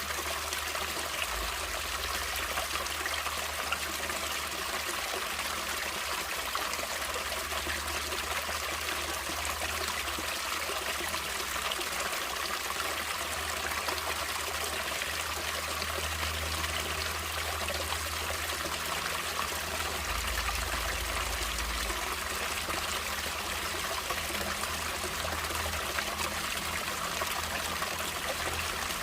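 Natural running water trickling and flowing steadily, an even splashing hiss with no break.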